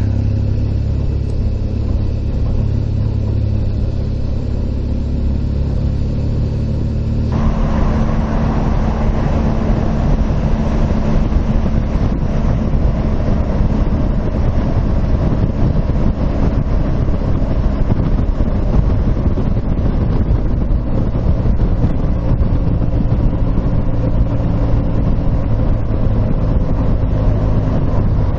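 Motorcycle running on the road, its engine a steady low drone; about seven seconds in the rushing noise jumps up sharply and stays loud as the bike speeds up.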